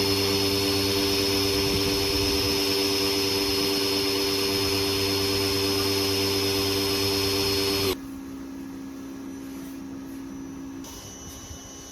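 A motor-driven machine running steadily with a held whine, which cuts off abruptly about eight seconds in, leaving a quieter steady hum.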